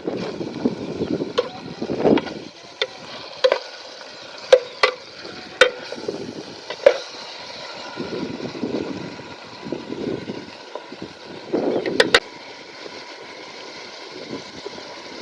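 A series of sharp, irregular knocks or taps, about eight over the stretch with a quick double knock near the end, with softer noise swelling between them.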